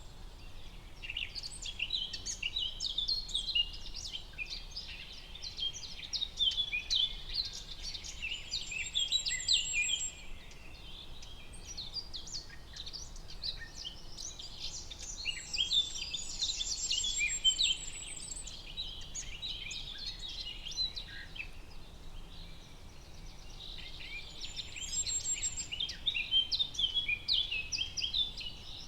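Forest ambience: several birds chirping and singing in dense overlapping bouts, with a high, rapid trill that recurs a few times, over a low steady background hiss.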